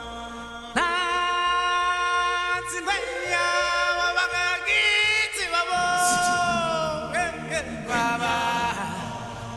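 Singing: a voice holding long notes that bend from one pitch to the next.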